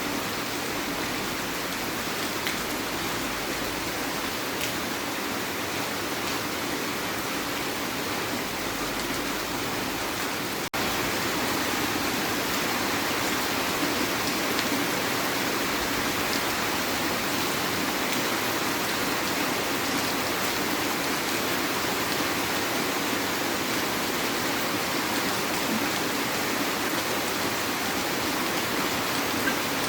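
Heavy rain falling as a steady, dense hiss. Partway through it drops out for an instant and comes back slightly louder.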